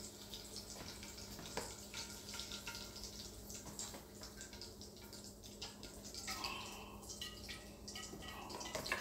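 Chicken pan-frying in hot grease in a skillet: steady sizzling with fine crackles, and a few light knocks of a fork against the pan.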